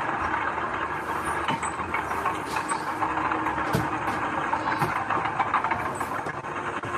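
Heavy diesel earthmoving machinery running steadily, with a few short knocks.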